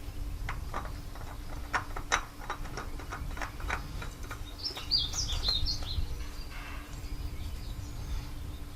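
A bird chirping in a quick run of short high calls about halfway through, over scattered clicks and knocks and a faint steady hum.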